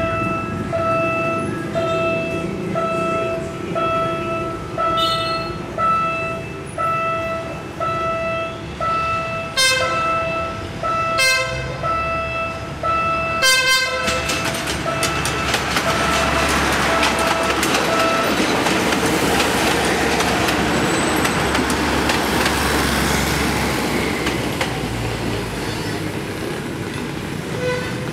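Philippine National Railways commuter train approaching and passing: short horn toots three times about halfway through, over a steady, evenly repeating electronic warning beep, then the train's running noise grows loud as it goes by and fades near the end.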